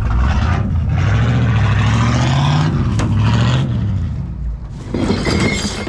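Chevy small-block V8 engine running in a truck, revving up about two seconds in and falling back, then dropping off briefly near the end.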